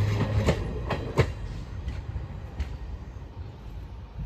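Tail end of a passenger train rolling away over the track: a low rumble fades in the first half-second, then a few scattered clacks of the rear coaches' wheels on the rails die away as the train recedes.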